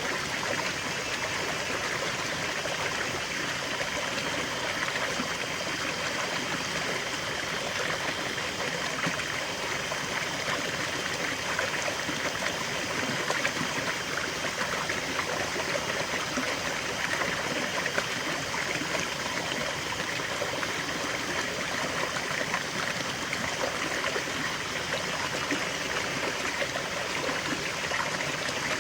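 River water flowing over stones, a steady, even rush with fine trickling and gurgling detail.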